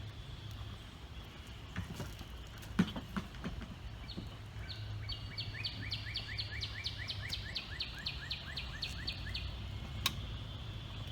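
A songbird sings a trill of rapidly repeated short notes, about four a second, for about five seconds, over a steady low hum. A few knocks and clicks come around two to three seconds in, the loudest about three seconds in, and one sharp click near the end.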